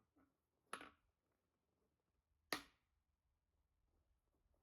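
Two sharp cracks of an axe striking firewood while logs are split, a lighter one about a second in and a louder one about halfway through.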